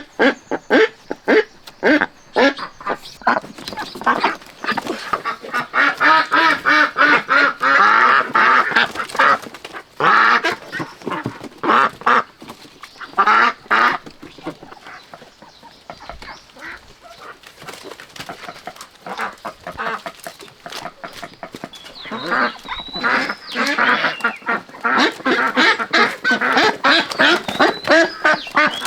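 A large flock of caged ducks quacking, a dense chorus of many overlapping quacks. It is louder for the first half, dies down somewhat in the middle and swells again near the end.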